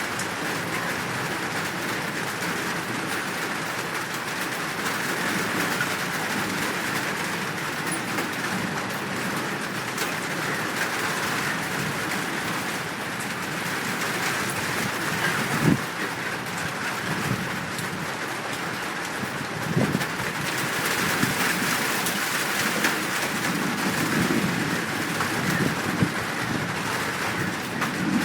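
Steady rain falling in a dense, even hiss, with a few short sharp knocks from about halfway through onward.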